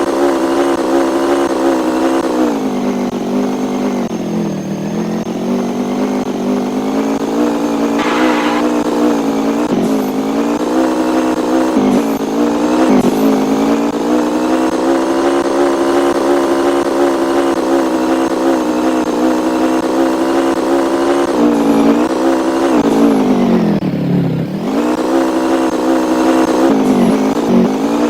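A vehicle engine running steadily, its pitch sagging a few seconds in and dropping sharply near the end before rising again as it slows and picks back up.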